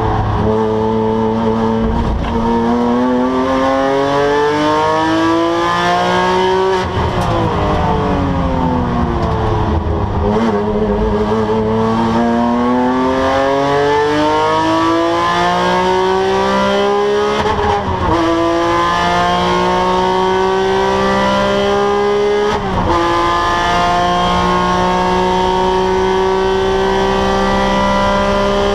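Porsche 997 GT3 flat-six engine pulling hard on track, the revs rising, then falling away for a few seconds under braking, then climbing again through two quick upshifts near the middle and end.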